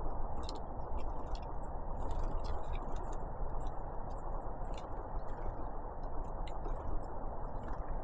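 Great tits and blue tits feeding, making many quick, irregular sharp ticks over a steady low rushing noise.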